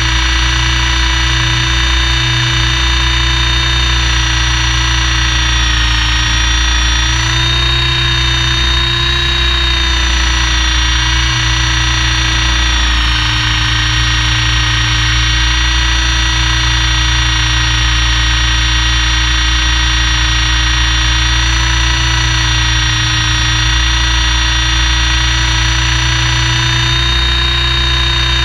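Helicopter cabin noise: a loud, steady mechanical whine made of several high tones that drift slightly in pitch together, over a constant low drone.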